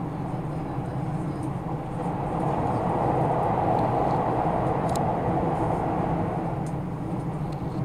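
Train running at speed: a steady rumble and rush that swells louder about two seconds in, with a brief click near the middle.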